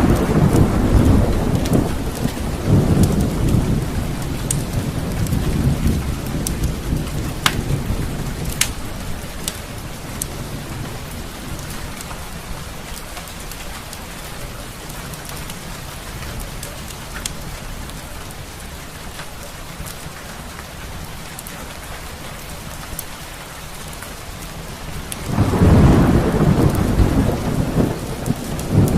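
Steady rain with rolling thunder: one rumble fading over the first several seconds and another building about 25 seconds in. Occasional sharp pops and crackles, as from a log fire, sound through the rain.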